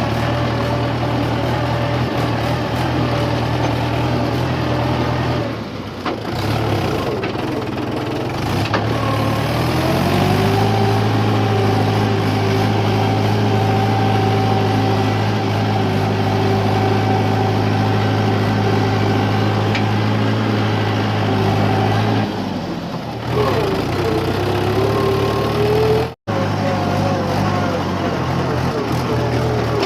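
Mahindra 575 DI tractor's four-cylinder diesel engine working under load, hauling a trolley of wet sand. About a third of the way in it revs up and holds high revs. It drops back near two-thirds of the way through, then revs up again, with a momentary cut-out near the end.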